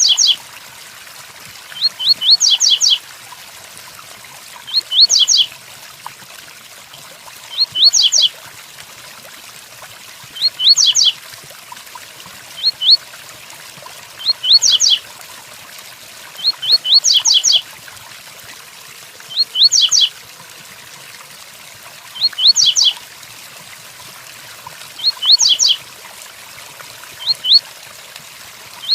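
Double-collared seedeater (coleiro) singing the 'tui-tuí' song type: short phrases of a few quick rising notes, repeated about every three seconds. Underneath runs a steady hiss of rain.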